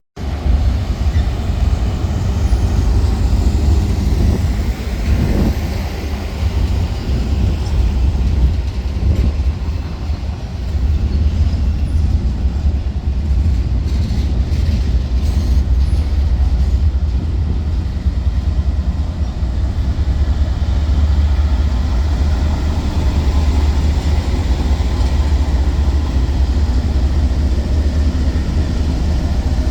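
A train running past close by: a loud, steady low rumble with rail noise that does not let up.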